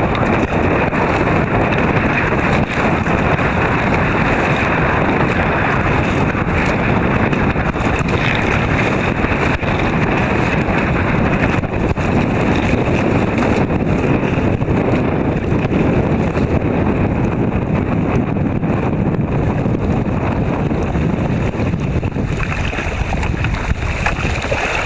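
Wind blowing across the microphone at sea: a loud, steady, even rushing noise that covers everything else.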